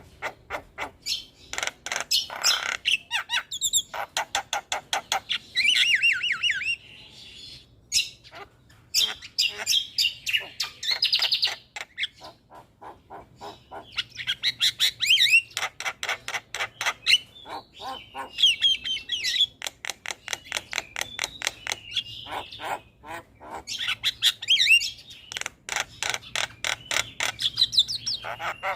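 Javan myna (jalak kebo) calling in long bouts of rapid, harsh chattering notes mixed with higher chirps and whistled phrases, with brief lulls between bouts.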